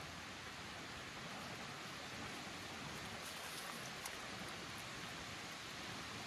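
Steady outdoor ambient hiss, with a few faint ticks around the middle and a small tap about four seconds in.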